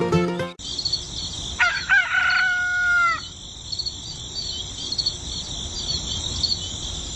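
A rooster crows once, about a second and a half in, over steady high chirping. Music cuts off just before.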